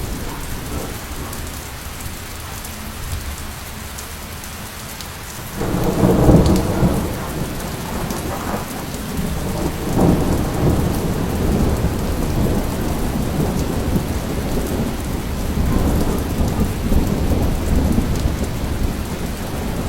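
Steady rain with rolling thunder: a loud low rumble breaks in about five and a half seconds in, and more rumbles swell later.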